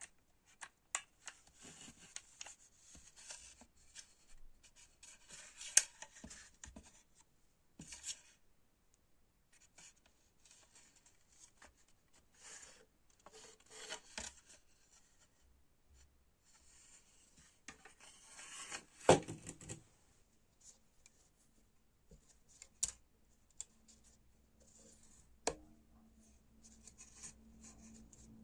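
Hand work on parts: intermittent rubbing and scraping in short spells, with scattered sharp clicks and knocks, the loudest about a fifth of the way in and again about two-thirds in. A faint steady low hum comes in after about twenty seconds.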